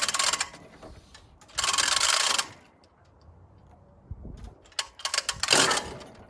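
Rigging gear ratcheting in three quick bursts of rapid clicking, each under a second long, with a few single clicks just before the last burst.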